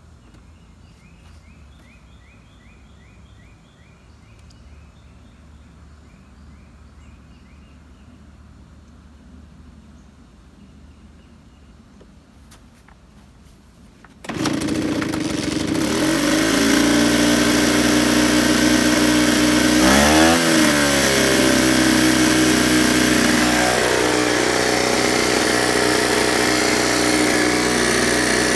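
A Ryobi 38cc two-stroke backpack leaf blower comes on suddenly about halfway through and runs loud and steady, with engine drone and rushing air. About 20 seconds in, its pitch dips briefly and comes back up.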